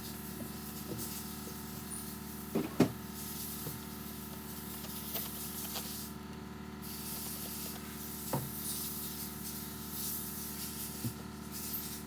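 A few knocks and clunks of tools and parts handled on a workbench, two louder ones close together about three seconds in, over a steady shop hum and hiss.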